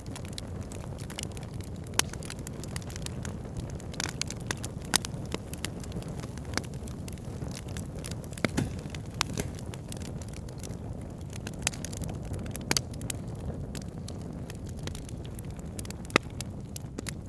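Wood fire in a fireplace, burning with a steady low rumble and irregular sharp crackles and pops, a few of them louder.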